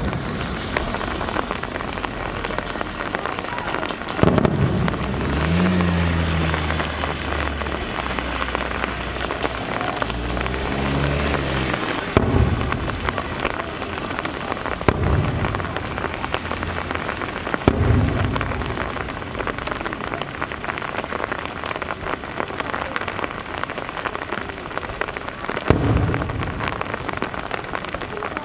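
Steady rain hissing down, with the deep booms of firework shells bursting about five times. A low drone comes in twice along the way.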